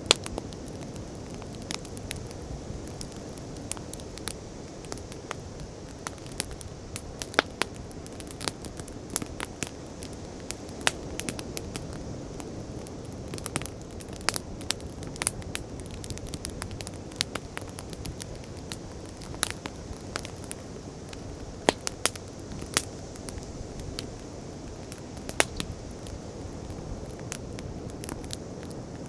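Wood fire crackling, with many sharp irregular pops, a few loud ones, over a steady low rush of sea waves.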